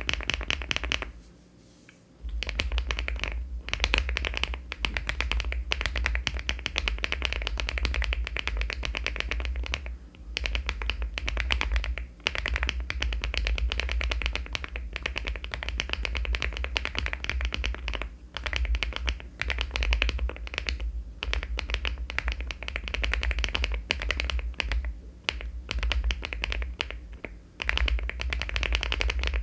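Rapid, continuous typing on a LEOBOG Hi75 aluminium mechanical keyboard with HMX Vintage switches and Cherry-profile keycaps, many quick keystroke clacks with a low thump under each. The typing pauses briefly about a second in, then runs on.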